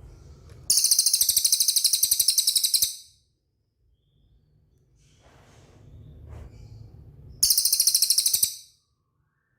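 A cililin bird singing two loud, very high, fast trills: the first lasts about two seconds, the second about one second, near the end.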